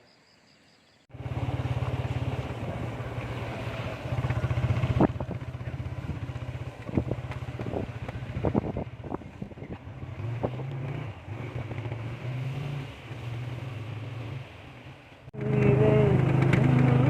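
Small scooter engine running as it is ridden over rough ground, with a steady low drone and scattered sharp knocks. It starts abruptly after about a second of near silence and gets louder near the end.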